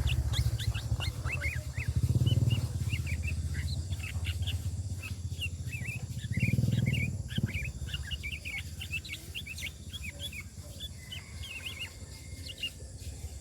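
Sooty-headed bulbul (kutilang) chattering in a rapid, continuous run of short high chirps, over a steady low hum with two brief louder low rumbles.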